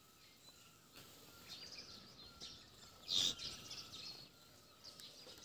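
Faint outdoor ambience with small birds chirping now and then, and one brief, louder chirp about three seconds in.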